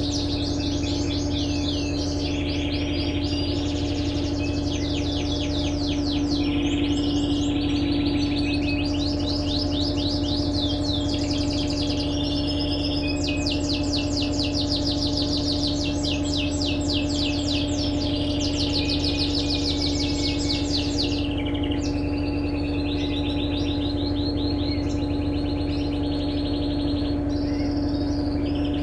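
Small birds chirping continuously in fast trills over the steady hum of an Electrolux LTE12 washing machine running.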